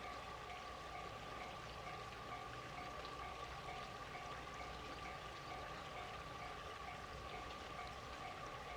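Railway level-crossing warning alarm ringing faintly, an even chime repeating about twice a second over a steady tone.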